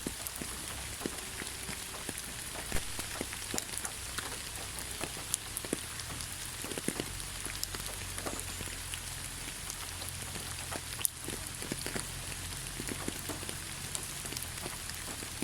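Steady rain falling, an even hiss dotted with many separate drop ticks, a few louder ones standing out, over a low steady rumble.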